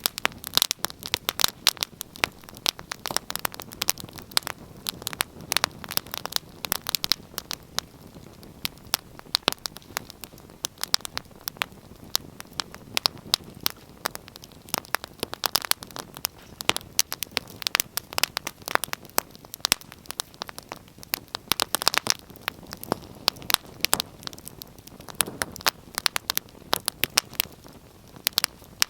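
Wood fire burning in a fireplace, crackling and popping irregularly over a soft steady hiss, with a few denser clusters of loud pops.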